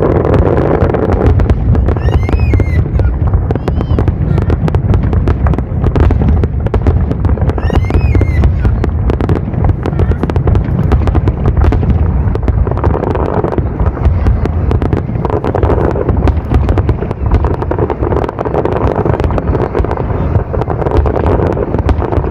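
Aerial fireworks display: a rapid, continuous series of shell bursts and crackling bangs over a steady low rumble.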